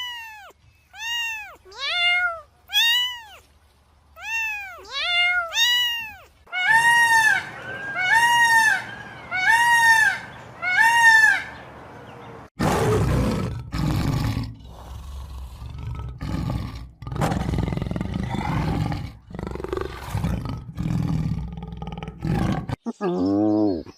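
A run of loud animal calls, each rising and falling in pitch, about one a second, followed about halfway through by a series of rough, deep roars from a large animal.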